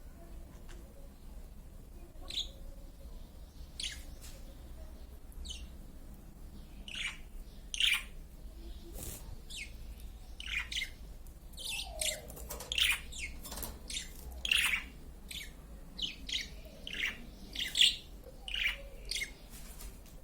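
Small birds chirping in short, separate calls. The calls are sparse at first and come more often from about seven seconds in.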